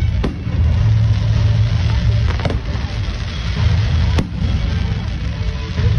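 Fireworks going off: a few sharp bangs a second or two apart, the loudest about four seconds in, over a steady low rumble.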